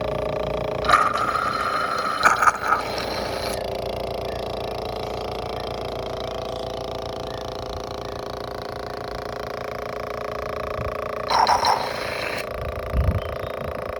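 A small motor on a honey suction device runs steadily. Twice it gives brief hissing, slurping bursts as the nozzle draws in honey and air.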